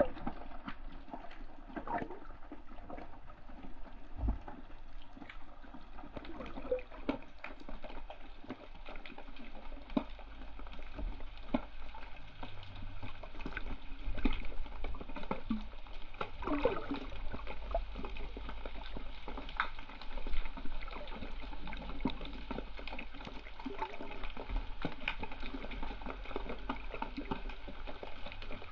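Seawater sloshing and bubbling around the GoPro camera, with many scattered crackles and clicks over a low rumble.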